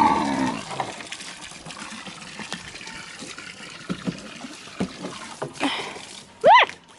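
Water running from a garden hose into a livestock water trough, a steady splashing flow with a few small knocks. Near the end comes one short, loud call that rises and falls in pitch.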